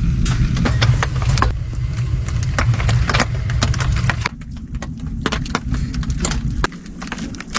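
Wood fire crackling with many short, sharp pops over a low steady rumble that drops away about four seconds in.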